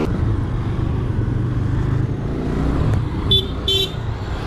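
Motorcycle riding through traffic: a steady low engine and road rumble, with two short high beeps about three seconds in.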